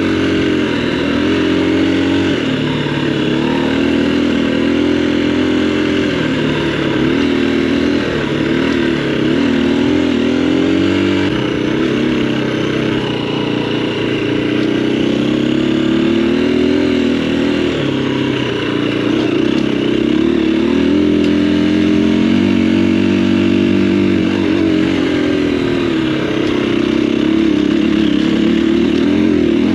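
Husqvarna single-cylinder four-stroke dual-sport motorcycle running under way, its revs rising and falling again and again with the throttle.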